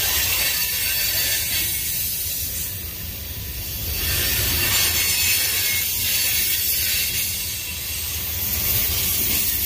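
A Union Pacific manifest freight train's tank car and covered hopper cars rolling past close by: their wheels on the rails make a steady low rumble with a hiss above it that swells and eases every few seconds.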